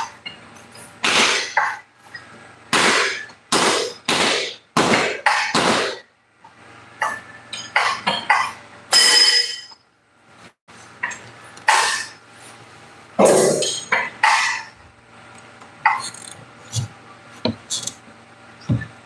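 A string of irregular knocks and clattering scrapes, roughly one a second, a few with a short metallic ring.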